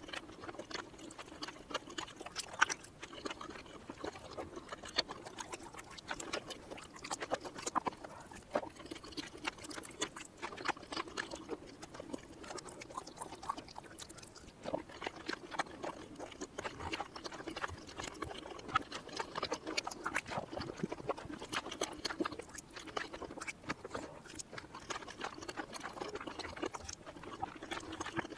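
Close-miked eating sounds from chewing cheesy mini rice cakes, played in reverse: a steady stream of many small mouth clicks and smacks.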